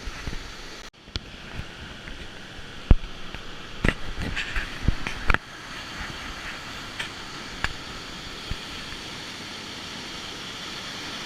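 Steady rushing noise, with a run of sharp knocks and clicks in the first half.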